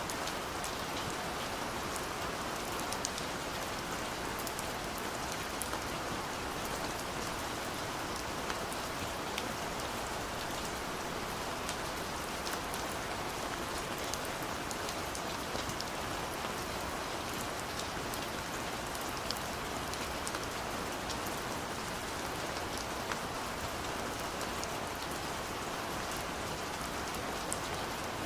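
Steady rain falling on a surface, an even hiss with many small distinct drop ticks scattered through it.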